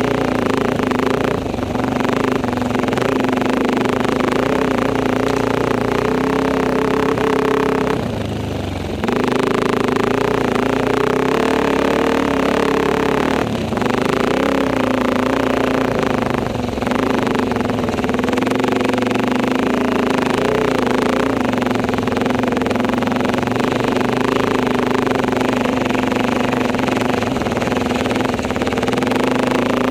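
Enduro motorcycle engine running at a steady throttle while riding, its note dipping briefly about eight seconds in and again a few seconds later.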